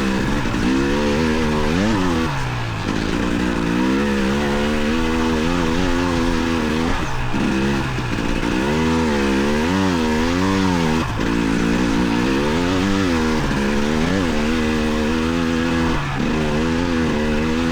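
Motorcycle engine heard from a helmet chin-mounted camera while riding, its note rising and falling again and again and dropping sharply a few times, over steady wind rush.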